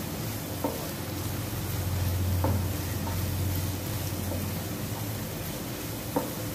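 Chopped onion and tomato sizzling in oil in a non-stick pan while being stirred with a wooden spatula, with three sharp taps of the spatula on the pan. A low hum swells in the middle.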